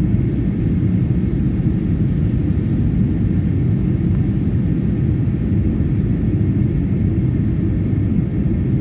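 Steady low rumble of engine and airflow noise inside an airliner's cabin during its descent to land, with a faint steady high tone above it.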